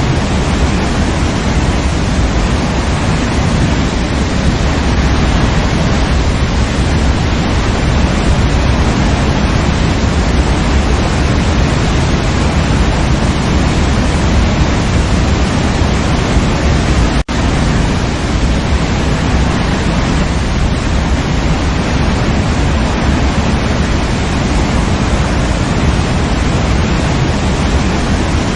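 Waterfall rushing in a steady, even roar of falling water, heaviest in the low range. It cuts out for a split second about two-thirds of the way through, then resumes.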